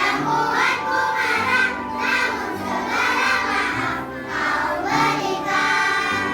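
A children's choir singing in unison over instrumental accompaniment with a steady bass line; the voices stop near the end, leaving the accompaniment playing.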